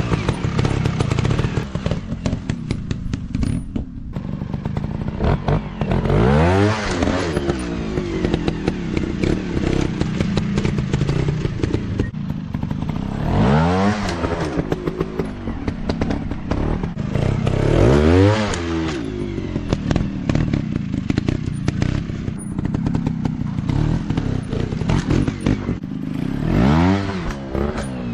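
Dirt bike engines running, revs rising and falling sharply about four or five times, with clattering and knocks over the running engine.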